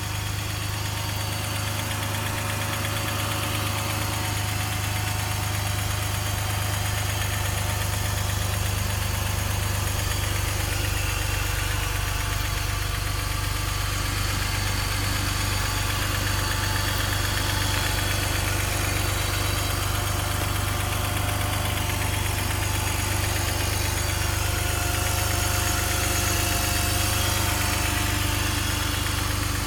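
BMW M54B30 3.0-litre straight-six engine idling steadily while cold, with a knocking noise that shows up on a cold engine.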